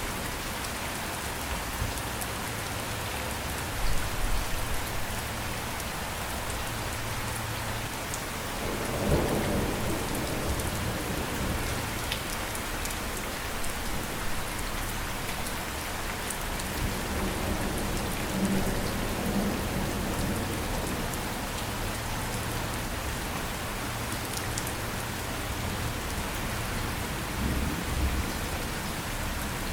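Steady rain falling, with low rolls of thunder: the strongest about nine seconds in, and smaller ones around four, eighteen and twenty-eight seconds.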